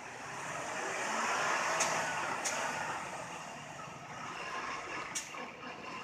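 Truck engine revving, its pitch rising and then easing off, as it strains on a tow strap to pull a stuck semi truck out of the snow. Three sharp clicks are heard along the way.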